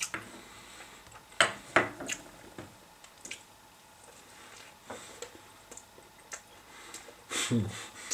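Someone chewing a bite of a breaded chicken burger: scattered wet mouth smacks and clicks, with a short low hum near the end.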